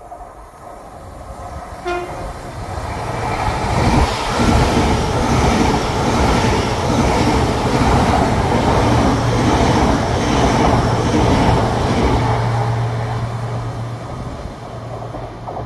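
GWR Class 800 Intercity Express Train passing through the station: a short horn toot about two seconds in, then wheels on rail and rushing air growing loud as it runs past, with a steady low hum and rhythmic clatter, fading as it moves away.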